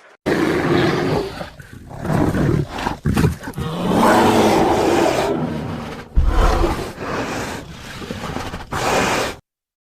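A large wild animal roaring in a series of long, rough roars that stop abruptly near the end.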